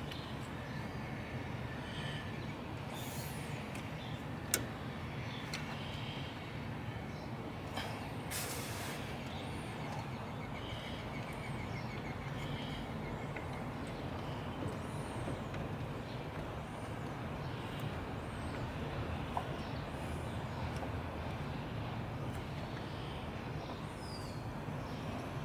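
Steady low background rumble, with a few short sharp clicks and one brief rustling burst of small metal parts and hand tools being handled.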